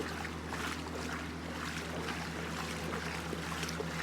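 Boat engine running steadily with a low hum, under a wash of water and wind noise.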